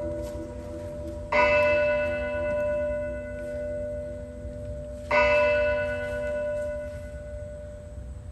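A deep church-style bell tolling twice, about four seconds apart, each strike ringing on and slowly fading, as the show's recorded music closes.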